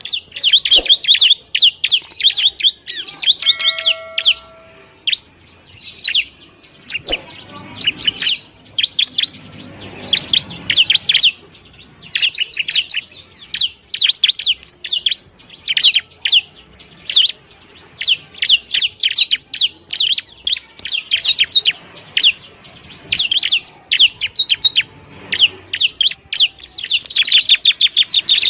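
Bar-winged prinia (ciblek) calling: fast runs of high, sharp chirps in bursts of a second or two, separated by short gaps.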